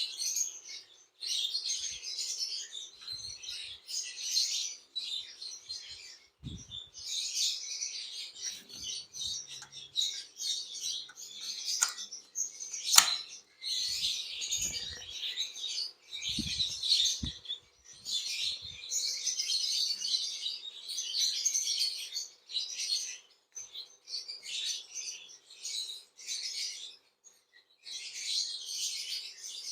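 Small cage birds chirping and chattering almost without pause, in dense high-pitched bursts. There is one sharp click about halfway through, and a few dull low thumps.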